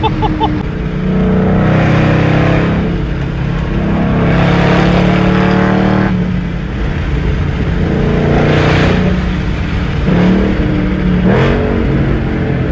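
2013 Mustang GT's 5.0 V8 exhaust, resonators cut out, running through the factory cats and H-pipe and aftermarket axle-backs: loud, under throttle, with several surges that ease off between them and a swing in pitch near the end.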